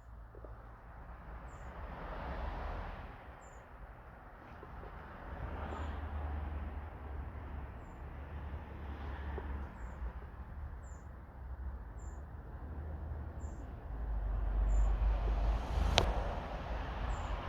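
A small bird repeating a short, high chirp about once a second over a low wind rumble, with swells of rustling and crunching movement; one sharp click near the end.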